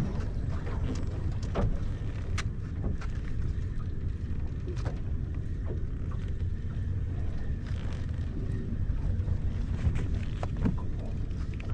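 Steady low rumble of wind on the microphone aboard a small fishing boat, with scattered short clicks and knocks.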